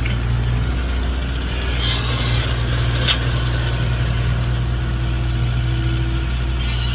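Mini Hitachi excavator's diesel engine running steadily, with a sharp knock about three seconds in.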